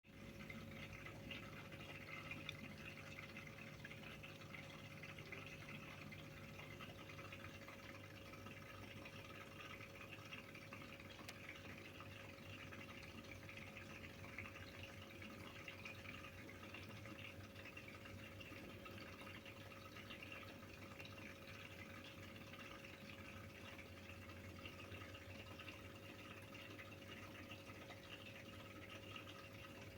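Aquarium filter running: a faint, steady trickle of water with a steady hum underneath.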